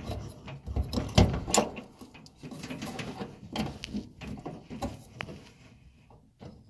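Irregular knocks, clicks and scraping as hands work inside a dryer cabinet, fitting the drive belt around the drum and pulleys. The loudest knocks come a little over a second in.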